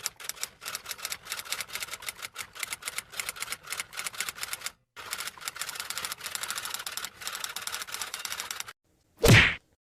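Typewriter typing sound effect: rapid keystroke clacks in two runs with a short pause between them, ending about nine seconds in with one short, loud sound.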